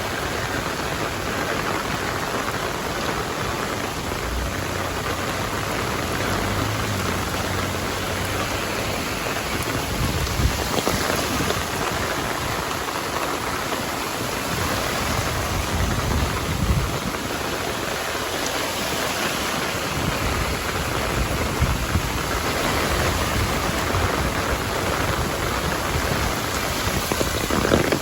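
Heavy rain falling steadily, a dense even hiss of drops on the road and other surfaces, with a few low rumbles now and then.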